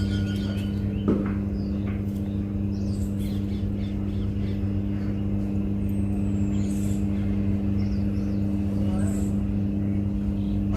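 A steady low hum, with a single knock about a second in and a few faint bird chirps above it.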